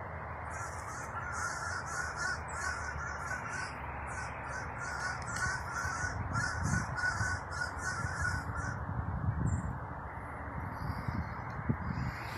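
A bird giving a quick series of short, repeated calls for about the first nine seconds, then falling silent, over a steady low background rumble.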